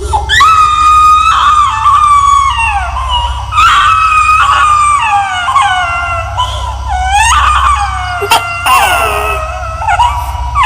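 Horror sound effect of an eerie, high-pitched crying wail, a 'ghost baby' cry: about six long cries, each starting high and sliding downward, over a steady low hum.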